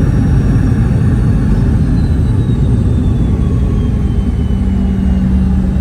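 Boeing 717 cabin noise heard from a rear seat: a steady low rumble from the rear-mounted BR715 turbofans and airflow, with a faint whine falling in pitch midway and a steady low hum setting in near the end.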